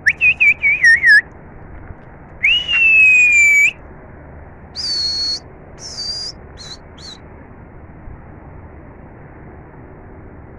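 A pigeon keeper whistling to his flock. It starts with a quick warbling run of notes, then one long held note that sinks a little, then a few shorter, higher whistles.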